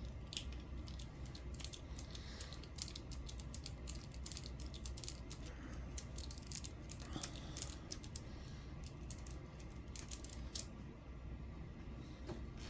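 Irregular light clicks and ticks of small hand tools and RC car steering parts being handled while a ball stud is taken off the steering bell crank.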